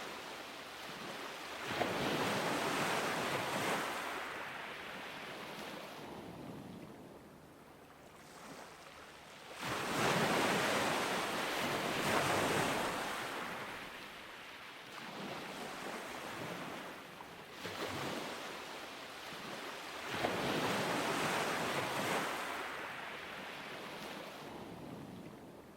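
Ocean waves breaking on a beach in slow surges about every eight to ten seconds, the loudest about ten seconds in, with a softer wash between them.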